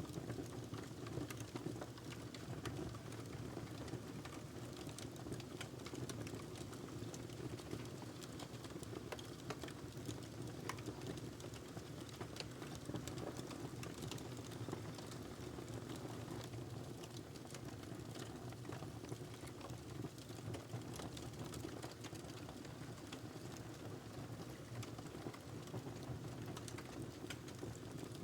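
A burning log in a fireplace, crackling: a steady low rumble of burning with many small snaps and pops scattered irregularly throughout.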